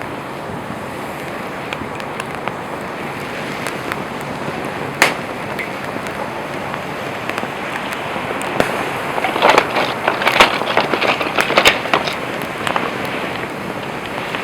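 Wood campfire burning with a steady hissing rush and sharp crackles and pops of burning wood, one loud pop about five seconds in and a dense run of loud crackling from about nine to twelve seconds.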